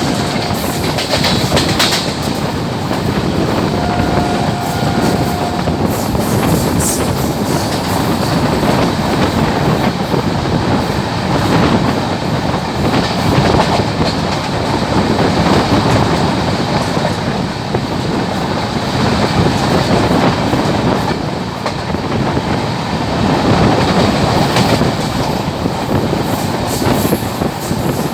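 Express passenger train hauled by a WAP-7 electric locomotive rushing past at about 110 km/h, a loud, steady roar of wheels on rail with clickety-clack over the rail joints.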